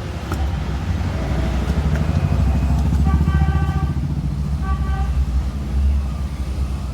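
A motor vehicle's engine running close by with a pulsing low rumble, and a horn honking briefly twice, about three seconds in and again near five seconds.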